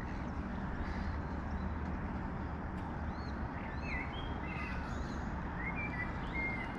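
Scattered short bird calls over a steady low background noise.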